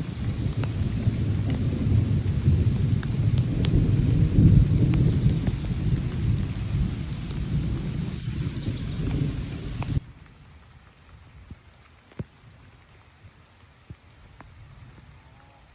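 Thunder rumbling over steady rain for about ten seconds, then an abrupt cut to quieter rain with scattered drops tapping.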